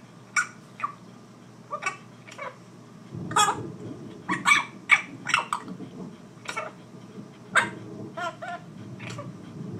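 Pet bird making a string of short, sharp kissing sounds, irregularly spaced at about one or two a second.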